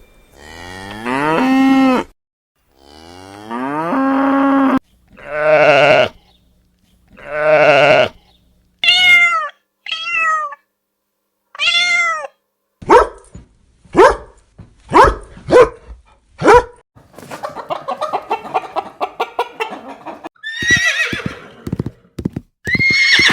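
Recorded animal calls played one after another with short silences between. It opens with cattle mooing: two long low moos, then two more. After that come a string of shorter, higher calls from other animals, then a run of quick sharp calls and a rapid pulsing stretch.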